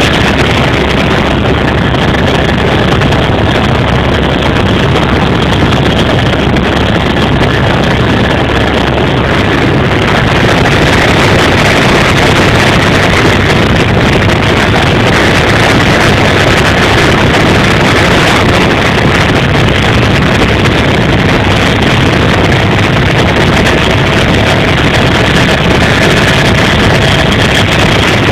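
Helicopter in flight: a loud, steady drone of engine and rotor noise with wind rushing over the microphone.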